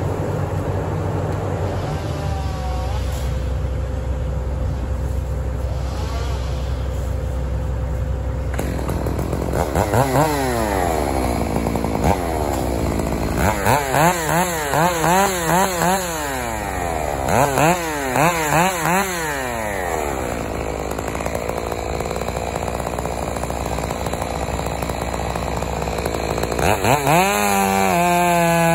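Chainsaw revved in quick bursts, its pitch rising and falling several times a second in clusters, over a steady low engine drone; near the end it revs up and holds at full throttle.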